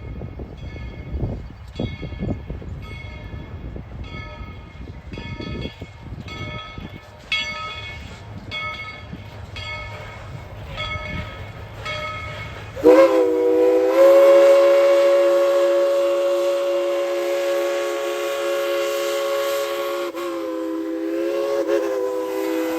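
Steam locomotive #190's bell ringing at a steady beat, about once every three-quarters of a second, over a low rumble. About halfway through, its fixed chime whistle comes in with a long, loud chord of several notes, wavers briefly near the end and keeps on blowing.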